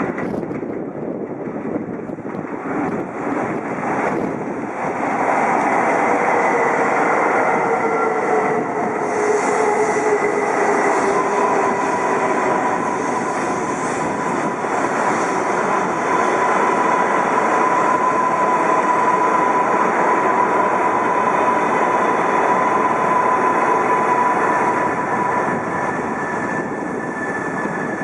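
Shinkansen high-speed train running along the platform: a loud rushing noise that builds about five seconds in, with motor whines that glide down in pitch and then a steady high whine, easing near the end.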